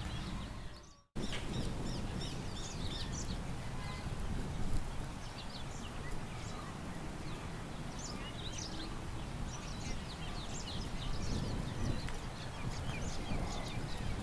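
Small birds chirping and twittering over a steady low rush of wind. About a second in, the sound dips to silence for a moment and then cuts back in abruptly.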